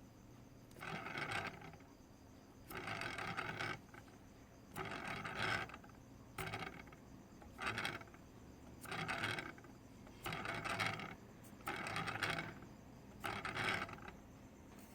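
A DJI Inspire 2 drone's rear right propeller and motor spun by hand over and over, giving about nine short rasping, scraping whirs, each dying away within a second.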